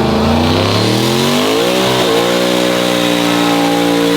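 Truck engine at full throttle in a drag run, its pitch climbing, dropping sharply at a gear shift about two seconds in, then pulling up again and holding high.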